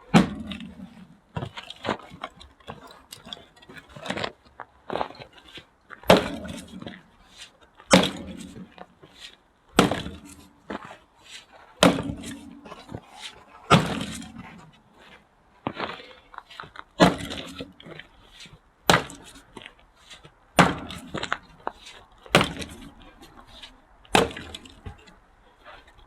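Axe splitting firewood: a sharp chop about every two seconds, with lighter knocks and clatter between the strikes.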